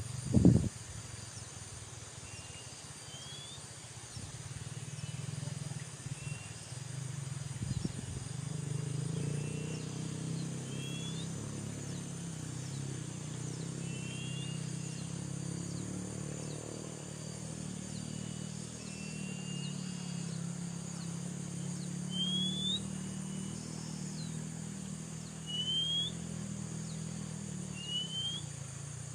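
A bird repeating short, rising whistled chirps every second or two over a steady high insect drone, with a low hum underneath from about eight seconds in.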